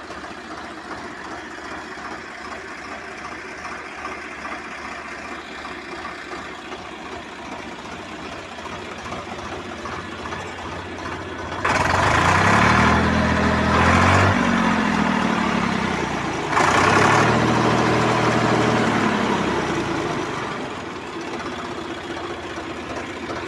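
Swaraj 744 FE tractor's three-cylinder diesel engine idling, then revved twice, about twelve and seventeen seconds in; each time the engine note rises and then falls back to idle.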